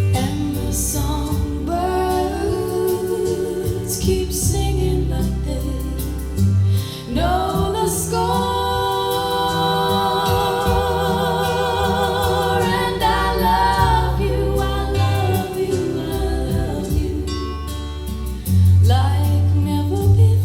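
Recorded song: a woman singing slow, held notes with vibrato over guitar and a bass line.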